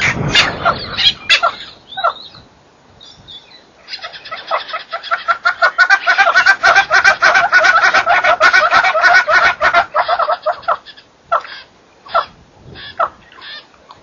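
Wild birds calling from a thorny shrub. A few short calls in the first two seconds, then a long run of rapid chattering notes, many to the second, from about four seconds in to nearly eleven. A few separate short calls follow near the end.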